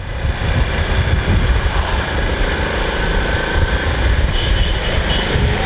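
Steady road noise of riding a motorcycle in traffic: a heavy low rumble of engine and wind, with an engine note rising slowly near the end.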